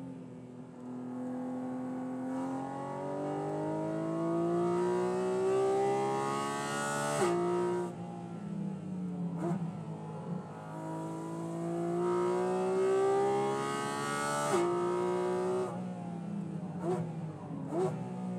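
The 2023 Porsche Cayman GT4 RS's 4.0-litre flat-six, heard from inside the cabin, revving up hard at full throttle through two long pulls. Each pull ends in a sharp drop in revs, with short blips of revs between and after them.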